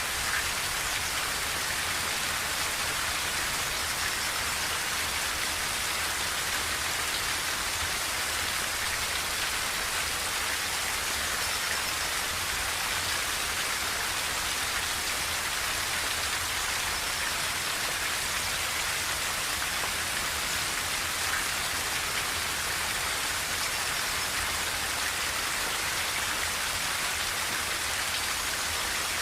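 Steady rain falling on a tin roof: an even, unbroken hiss, mostly high-pitched.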